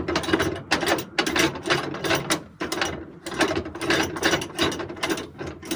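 Flatbed cargo tie-down strap's ratchet being worked by hand, clicking rapidly and rhythmically in quick pairs of metal clicks, as the straps holding the load are taken up.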